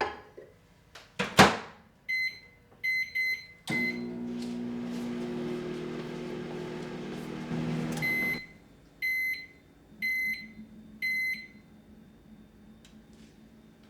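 Microwave oven in use. A loud knock like its door shutting, four short keypad beeps, then the oven runs with a steady hum for about five seconds. It stops with a beep, and a few more beeps follow about a second apart, signalling the cycle is done.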